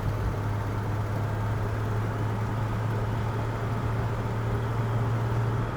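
Steady low engine drone with road noise, heard from inside the cab of a moving 1951 vehicle.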